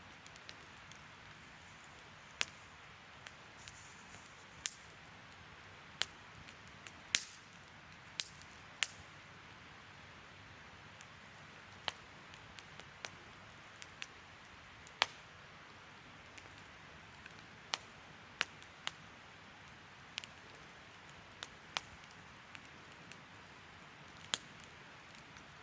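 Wood campfire crackling: sharp, irregular pops and snaps, roughly one a second, over a faint steady hiss of burning.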